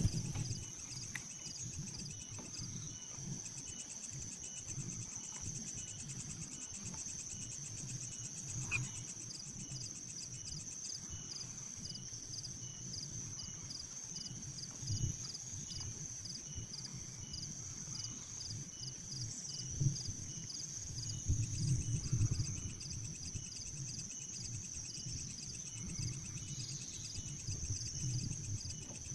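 Steady high-pitched insect chorus with a regular pulsing trill, over a low irregular rumble that grows louder around two-thirds of the way through.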